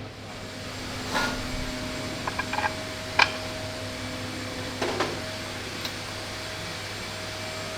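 Steady machine hum in a workshop, with a few short clinks and knocks of metal parts being handled; the sharpest knock comes about three seconds in.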